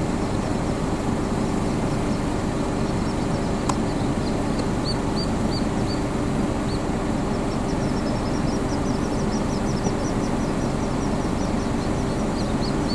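Little grebe chicks peeping: a few short, high-pitched peeps about four seconds in, then a quicker run of peeps from about two-thirds of the way through, over a steady rushing background noise with a low hum.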